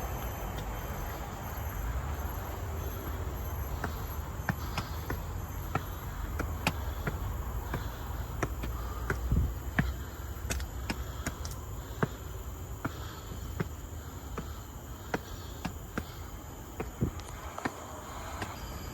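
Footsteps at a walking pace of about two steps a second, over a faint steady insect drone and a low rumble of distant traffic that fades after the first few seconds.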